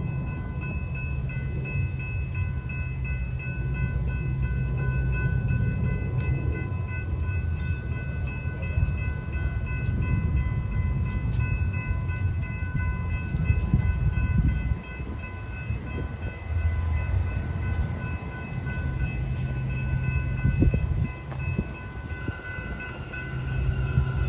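TEXRail commuter train running at a station platform: a steady low rumble with a constant high whine of several tones held throughout, easing briefly about two-thirds of the way through.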